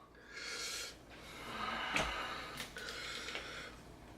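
A man breathing hard through his mouth in three loud breaths, his mouth burning from extra-spicy noodles, with a small click about two seconds in.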